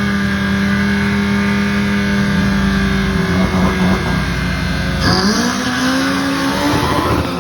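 A drag-racing car's engine held at steady high revs, then rising in pitch as it accelerates hard down the strip; the sound cuts off sharply near the end.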